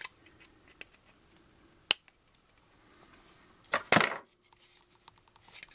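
Plastic strip ends being cut off with a hand cutter: a sharp click a little under two seconds in, then two louder snaps close together about four seconds in.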